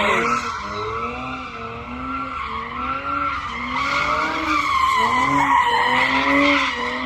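A car spinning its tires: a continuous tire squeal with the engine revving up and down about once a second.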